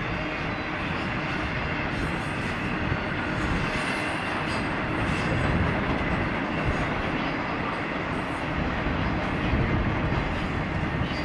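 Intermodal freight train's container and trailer cars rolling past: a steady rumble of steel wheels on the rails, with a few faint, brief high-pitched squeaks and clicks.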